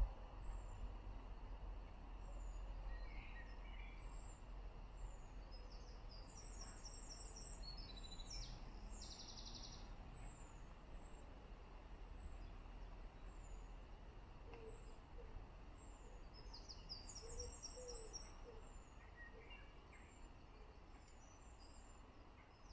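Faint birdsong: short, high, falling chirps repeated every second or two, with two bursts of high trilling and a few low notes about fifteen seconds in, over a steady low rumble.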